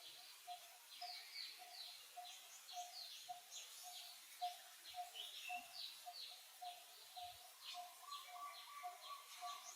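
Faint outdoor bird chirping: many short high calls over a lower note repeated evenly about three times a second, with a thin steady tone joining near the end.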